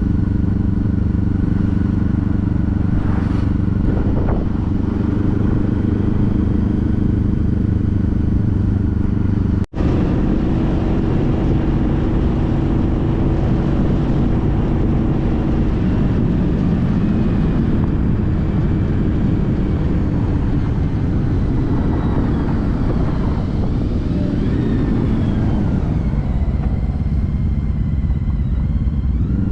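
Honda CTX1300's V4 engine running at a steady pitch under road and wind noise. After a momentary drop-out about ten seconds in, its pitch wavers and glides up and down with changes of speed, then climbs near the end.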